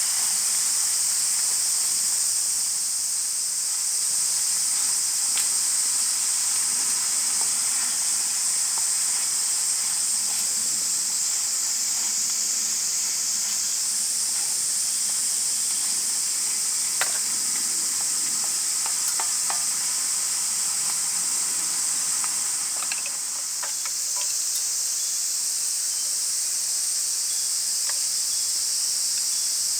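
Steady, high-pitched chorus of summer insects droning, with a few faint clicks.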